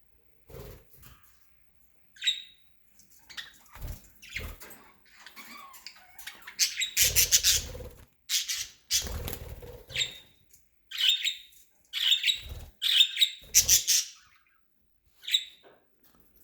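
Pet budgerigars chirping and squawking in short, repeated bursts, loudest in the second half. Between the calls come soft rustles and thumps.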